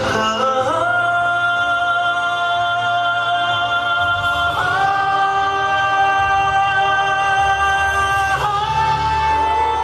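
Music with singing: long held sung notes, each lasting about four seconds before shifting to a new pitch.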